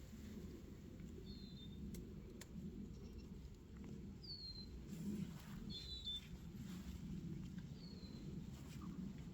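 A small bird chirping outdoors: a short, slightly falling chirp every second or two, over a low steady background rumble.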